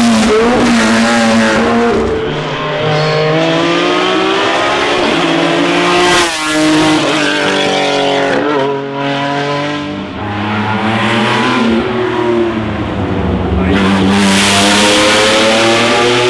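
Classic racing car engine under hard acceleration on a hillclimb. The revs climb and drop back again and again as it shifts gears and lifts off between bends.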